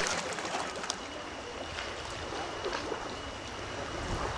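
Sea water splashing and lapping, a steady hiss with a few small sharp ticks in the first second.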